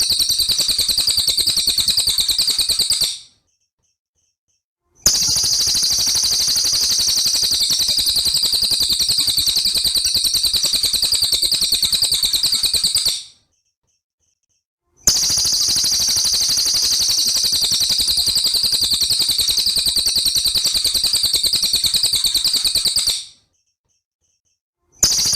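Recorded songbird song of the kind used as a masteran (tutor recording for competition birds): a fast, dense, high-pitched trilling run. It plays in stretches of about eight seconds, twice broken by about two seconds of complete silence.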